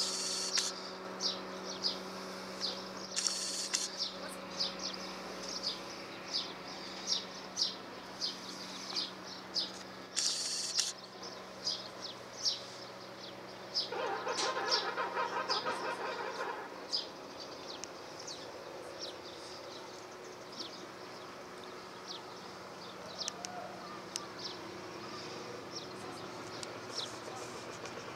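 Small birds chirping, short sharp calls about one or two a second, over a steady low boat-engine hum. A rough buzzing sound joins for about three seconds midway.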